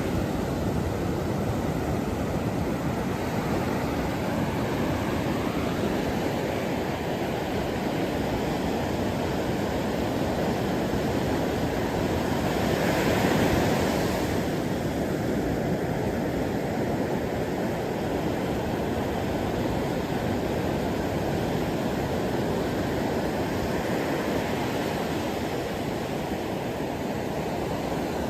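Ocean waves: a steady wash of surf with one wave swelling louder about halfway through.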